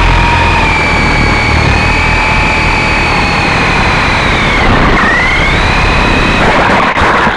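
Electric motors and coaxial rotors of a Syma S033G RC helicopter whining loudly over a rushing hum. The pitch dips sharply about five seconds in as the throttle is eased, then rises back.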